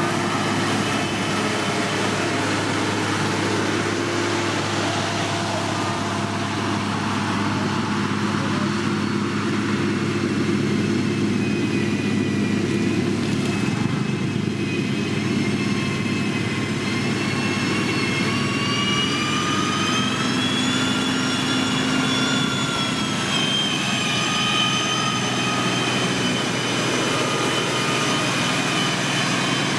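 Diesel engine of heavy road-building machinery running steadily. About twelve seconds in, a high whine joins it, rising in pitch and falling again near the middle.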